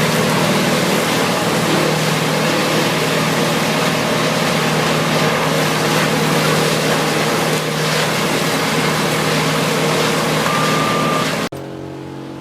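Large wood chipper working under load: a steady engine drone beneath loud, dense shredding noise. Near the end it drops abruptly to a quieter engine running.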